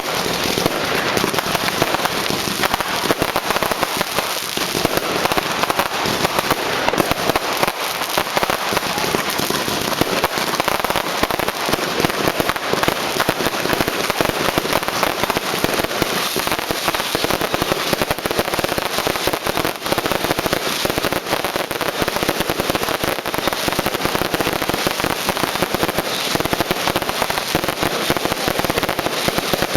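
Fireworks and firecrackers going off in a dense, unbroken barrage of bangs and crackling.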